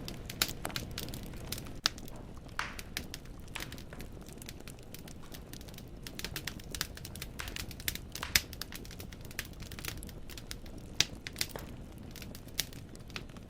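Wood fire burning in a fireplace: logs crackling and popping with irregular sharp snaps, a few louder pops standing out, over a low steady rush of flame.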